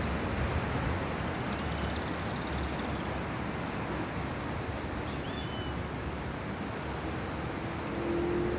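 A steady high-pitched insect trill, cricket-like, over the low rush of strong wind on the microphone, with a couple of faint bird chirps.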